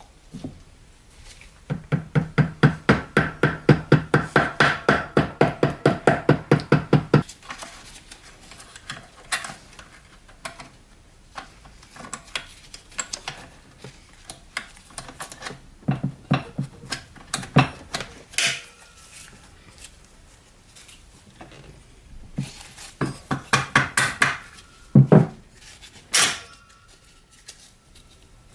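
Metal tools and parts clicking and clinking. A run of rapid, even clicks at about six a second lasts some five seconds. Scattered knocks follow, then a shorter run of quick clicks near the end.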